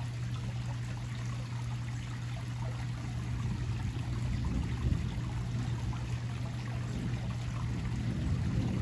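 Rain pouring down steadily during a thunderstorm, an even rushing with a steady low hum underneath.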